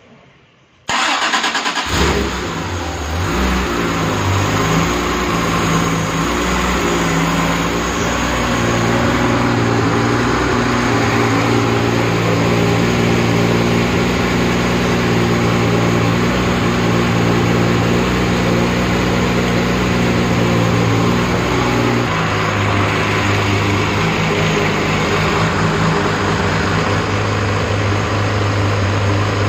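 Rebuilt Porsche 911 3.2 Carrera air-cooled flat-six started cold: the starter cranks briefly about a second in and the engine catches almost at once, then runs steadily at a fast idle. Near the end the engine note drops as the idle settles to about 1,000 rpm.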